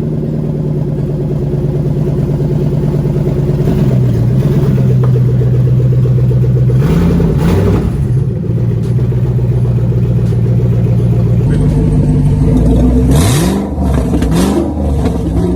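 Ford Shelby GT500's V8 idling loud and steady through gutted catalytic converters with no axle-back section fitted, a nearly open exhaust. One brief blip of the throttle comes about seven seconds in, then several quick revs near the end.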